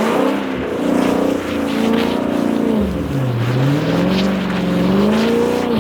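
Car engine revving up and down, its pitch rising and falling in slow waves and dropping lowest about halfway through.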